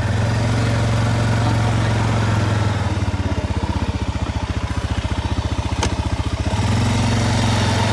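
Vehicle engine running steadily with a rapid, even pulse, easing off slightly in the middle and picking up again near the end; a single sharp click about six seconds in.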